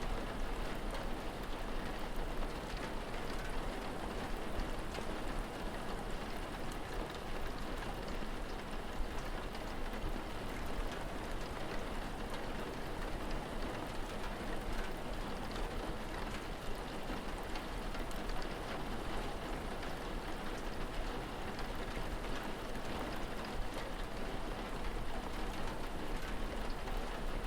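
Steady rain falling, an even patter that does not change, with a low rumble underneath.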